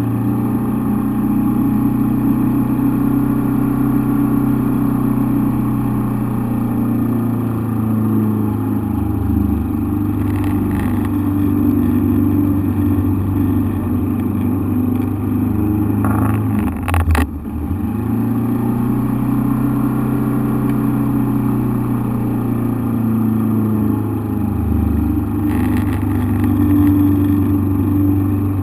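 Engine running loudly and steadily from inside the cockpit, holding a mostly even pitch. It dips briefly about nine seconds in and cuts back sharply with a couple of clicks about seventeen seconds in before picking up again.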